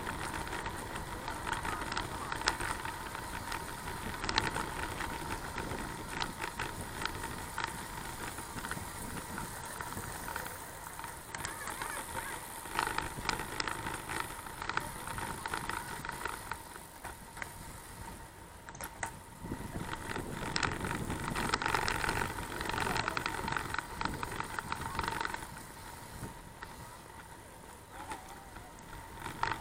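Bicycle ride heard from a camera carried on the bike: irregular rattling clicks and knocks over the road surface with tyre and wind noise, the level rising and falling, and a faint steady whine.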